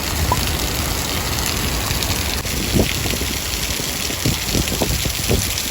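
Heavy rain pouring down in a steady hiss, with a few soft knocks in the second half.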